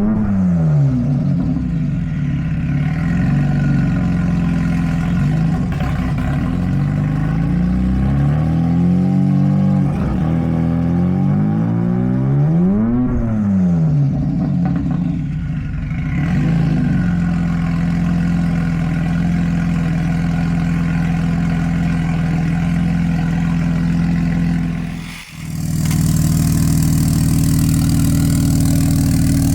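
Turbocharged 2.7-litre V6 of a 2005 Hyundai Tiburon running through a hood dump exhaust. It is revved up and back down slowly, peaking about 13 seconds in, then held at a steady speed. The sound drops out sharply for a moment about 25 seconds in.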